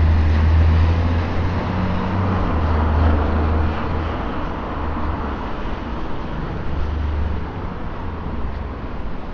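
Road traffic on a wet street: a vehicle's engine hums low and close, loudest at the start and fading over about four seconds, then returning briefly around seven seconds in, over a steady hiss of tyres on wet road.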